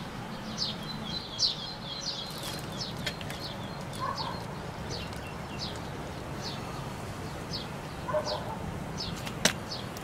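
A small bird repeating a short, high, falling chirp over and over, about two a second at first and then about one a second. A single sharp knock comes near the end.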